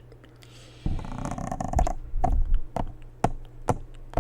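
Close-up ASMR handling sounds: about a second in, a dense rustling burst lasting about a second, then a run of sharp taps about twice a second.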